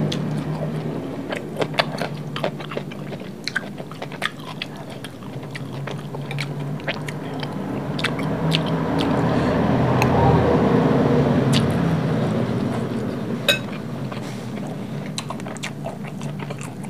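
Close-miked chewing of a mouthful of fried rice, with many sharp wet clicks and crunches. The chewing grows fuller and louder around the middle.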